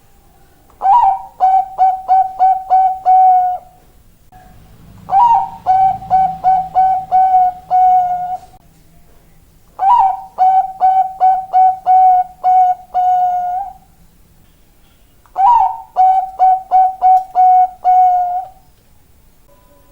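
Bangkok-type zebra dove (perkutut) cooing: four song phrases, each a rising opening note followed by a quick run of short, evenly pitched staccato coos and a longer held final coo, with a short pause between phrases.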